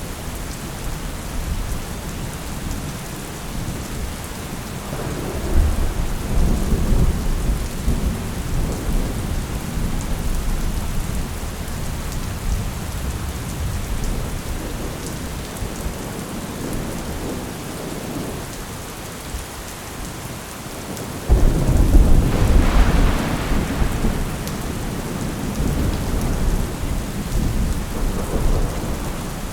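Steady rain with thunder: a rolling rumble swells about five seconds in, and a louder, sudden thunderclap breaks about two-thirds of the way through, then rumbles away over several seconds.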